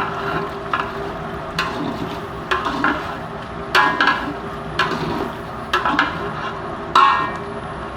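Chicken gizzards frying in oil in a pot, stirred with a spoon that knocks sharply against the pot several times, irregularly, over a steady sizzle.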